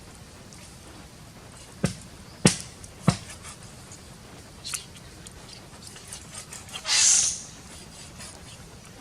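Three sharp knocks a little over half a second apart, a fainter click, then a brief hissing scrape about seven seconds in.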